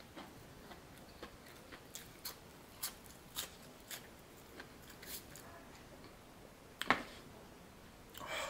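A person chewing fried food close to the microphone: scattered soft crunches and wet mouth clicks, with one louder click about seven seconds in.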